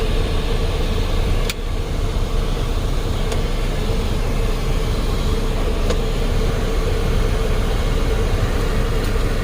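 2010 Chrysler Sebring's 2.7-litre V6 idling with the A/C running: a steady hum with a constant drone, and a few light clicks.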